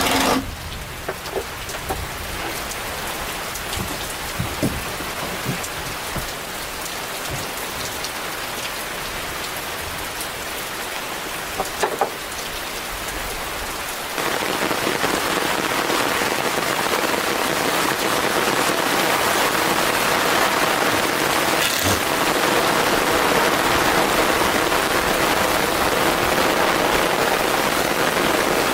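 Steady rain falling, with a few scattered drips or knocks in the first half; the rain gets suddenly louder about halfway through and stays heavy.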